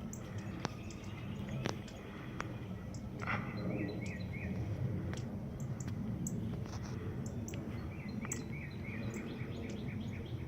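Northern cardinals giving sharp, irregular chip calls, the alarm they use to scold a cat near them in the tree. Twice a short run of quick repeated notes is heard, over a steady low rumble of outdoor background noise.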